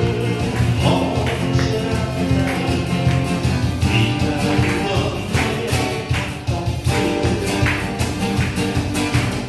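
Music played on acoustic guitars, strummed in a steady rhythm.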